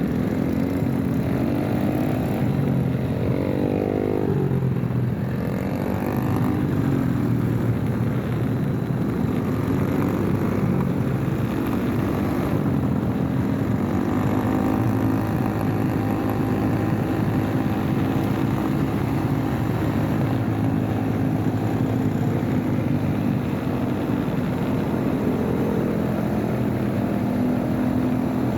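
Motorcycle engine running while riding. The revs rise and fall several times a few seconds in, as with gear changes, then settle to a steadier cruise, with steady road and wind noise throughout.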